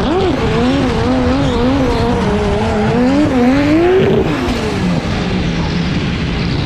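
Drift car's engine held high in the revs, the pitch swinging up and down about twice a second as the throttle is worked through a slide, over the hiss of spinning tyres. About four seconds in the revs climb, then drop back to a steadier, lower note.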